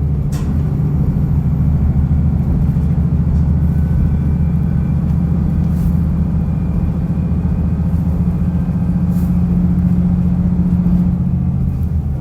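Diesel railcar running under power along the line, its engine drone steady and strong with the rumble of the wheels on the rails, and a few short sharp clicks. The engine note eases off near the end.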